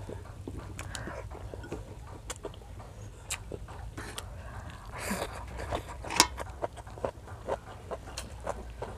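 Close-miked chewing of seaweed and rice, with wet mouth clicks and smacks coming several times a second. A sharp click about six seconds in is the loudest, and a steady low hum runs underneath.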